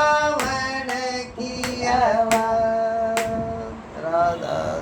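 A woman singing the last drawn-out notes of a devotional bhajan, sliding between long held tones, with occasional hand claps; the singing stops near the end.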